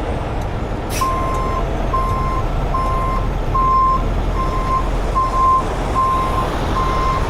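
A heavy truck's reversing alarm beeping steadily, a bit more than once a second, starting about a second in, over the low rumble of idling diesel trucks. A sharp knock sounds as the beeping begins.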